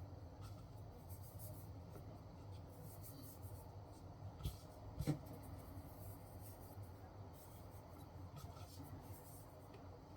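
Faint scratching and rubbing from hand work on the wooden toy's parts, with a couple of light knocks about halfway, over a steady low hum.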